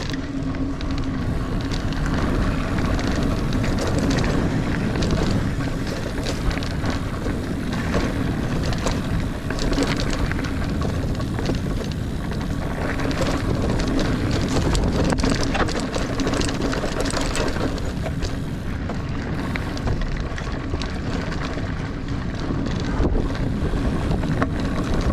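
Niner Air 9 RDO 29er mountain bike riding dirt singletrack: tyres rolling over the ground, with the chain and frame rattling and clicking over bumps and wind on the microphone.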